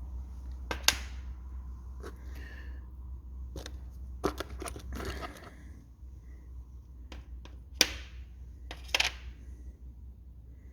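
Small metal engine valve-gear parts clinking and knocking as they are handled and set down, a few sharp clinks spread out, the loudest about a second in and near eight and nine seconds, over a low steady hum.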